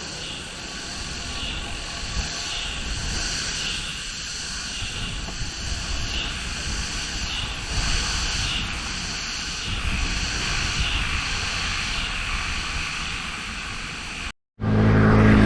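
Insect chorus in the forest, a high buzzing drone that swells and fades about once a second, over a low steady rumble. It cuts off abruptly near the end, and background music begins.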